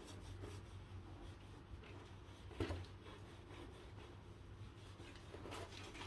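Faint scraping and rubbing strokes while sand and dirt are cleaned out of a bicycle's hydraulic disc-brake caliper, the strongest stroke about two and a half seconds in, over a low steady hum.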